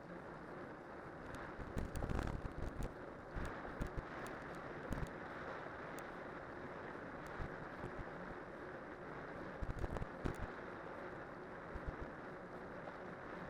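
Cyclocross bike on spiked winter tyres rolling downhill: a steady rumble of the tyres and wind on the microphone, with scattered knocks and thumps from bumps, the loudest about two seconds in and again around ten seconds.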